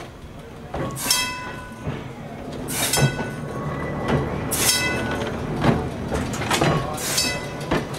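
Electric streetcar arriving at the station, running with a steady low hum and sharp metallic clanks with brief ringing every second or two, getting slightly louder as it comes in.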